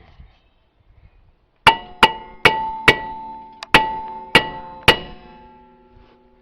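Hammer striking a steel brake rotor to knock it loose from the hub: seven sharp metal blows about half a second apart, with a pause after the fourth. Each blow leaves the rotor ringing with a steady metallic tone that slowly fades.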